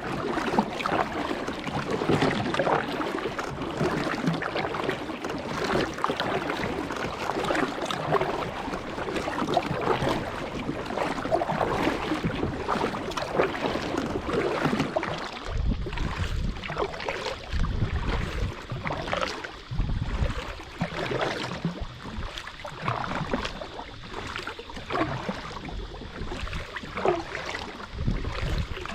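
Water splashing and lapping against a kayak, with many small crackling splashes throughout. From about halfway there are also repeated low rumbles.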